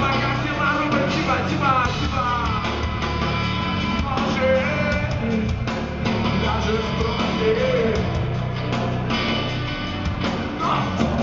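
Rock band playing: electric guitars over bass and drums, with a melody line that bends in pitch above them.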